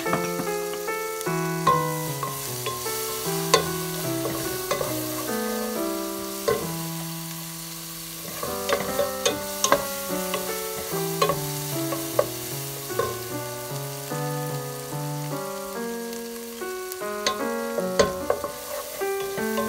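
Diced onions and habanero pepper sizzling in butter in a frying pan, stirred with a wooden spatula that clicks and scrapes against the pan now and then. A background music melody plays over it.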